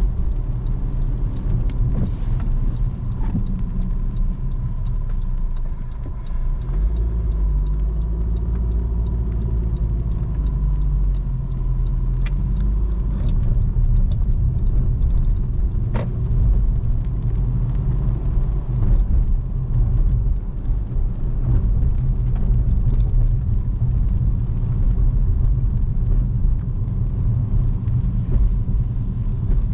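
Car driving through city streets: a steady low engine and road rumble that gets heavier about a quarter of the way in, with a few sharp clicks.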